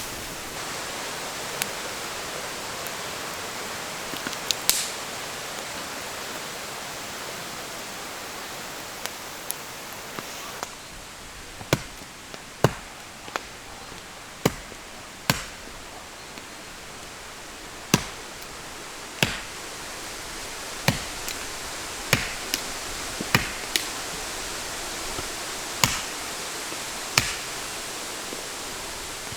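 Steady hiss of rain in a forest. In the second half come about a dozen sharp knocks, roughly one every second or two.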